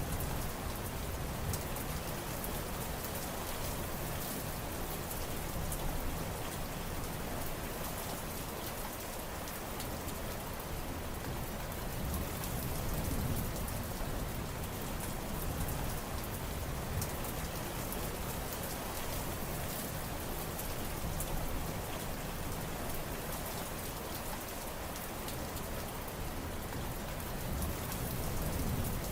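Steady rain falling on surfaces, a continuous hiss with scattered drop patter, swelling slightly in strength now and then.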